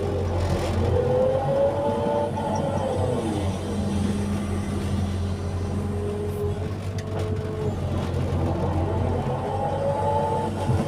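Excavator's diesel engine running steadily under load, with a hydraulic whine that rises and falls in pitch as the machine works, once early on and again near the end.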